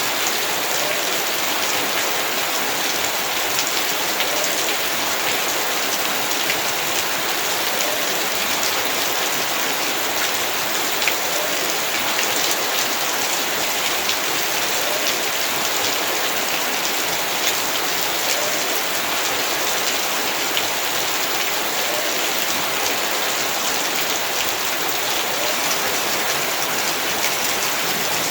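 Heavy rain falling steadily onto surfaces in a yard, a dense hiss with many individual drops ticking through it.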